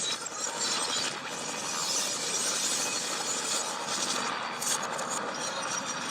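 Action-film soundtrack played backwards: a dense, noisy din with breaking glass, and a few sharp cracks about four and a half to five seconds in.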